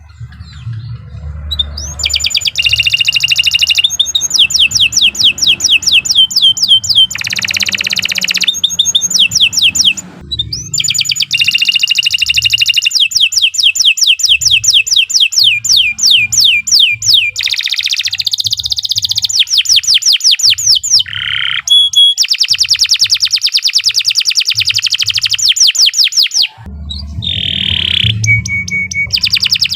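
Domestic canary singing a long, nearly unbroken song of rapid trills: fast runs of repeated sweeping notes, one phrase after another, with short breaks about ten seconds in and again near the end.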